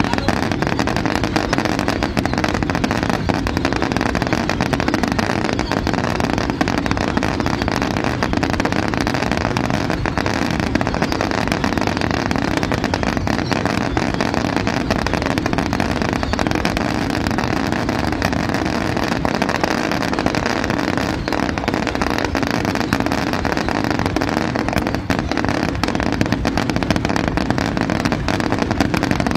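Fireworks display: a dense, steady crackle of many small pops over a continuous rumble, with no single big bang standing out.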